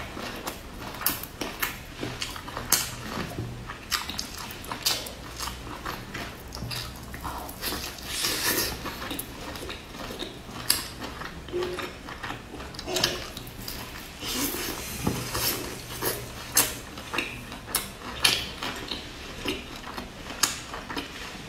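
A person eating a pan-fried flatbread stuffed with green vegetables, heard close: irregular crunching and crackling as the browned crust is bitten and chewed, a few sharp clicks a second.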